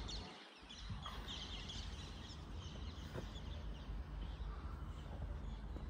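Birds chirping and calling in the background, many short high chirps over a low steady rumble.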